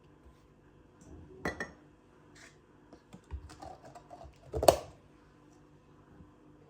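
Scattered small clicks and taps of objects being handled, with two louder knocks, one about a second and a half in and one about four and a half seconds in.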